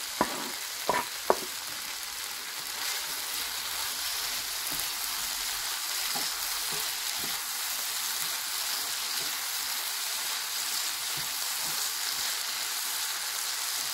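Vegetables sizzling in hot avocado oil in a frying pan while a wooden spoon stirs them, a steady hiss. A few sharp knocks in the first second and a half as chopped bell peppers are tipped in from a wooden cutting board.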